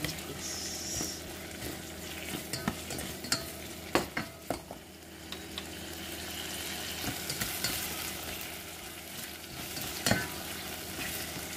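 Tomatoes and onions sizzling in a small stainless steel saucepan while a spatula stirs them, with a steady hiss and scattered scrapes and knocks of the spatula against the pot; the sharpest knocks come about four seconds in and near the end.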